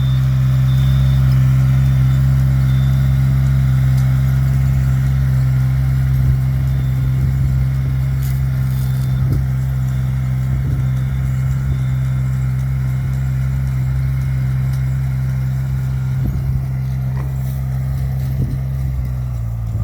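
Rice transplanter's engine running steadily, a constant low hum that drops slightly in pitch near the end.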